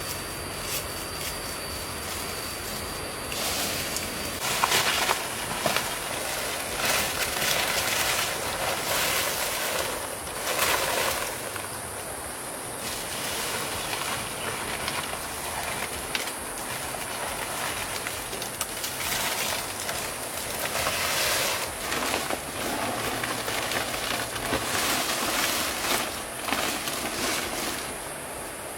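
Steady rushing noise of a flowing stream, with louder rough stretches coming and going and a steady high-pitched hiss above it.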